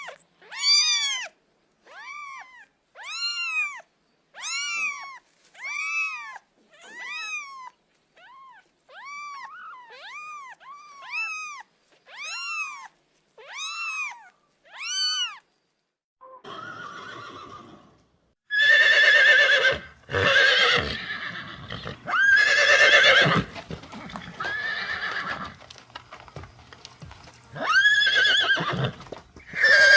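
Horse neighing and whinnying several times in the second half; these are the loudest calls. Before them comes a run of about fourteen short, high calls from a small animal, each rising and falling in pitch, about one a second.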